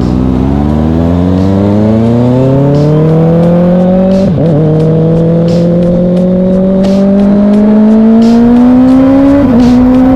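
Sport motorcycle engine accelerating through the gears. The pitch climbs steadily, then drops briefly with an upshift about four seconds in and again near the end before climbing again.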